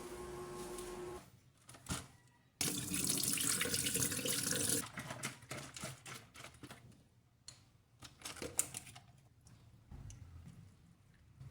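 A tap is turned on and runs into a sink for about two seconds, then shuts off, followed by scattered light clinks and knocks.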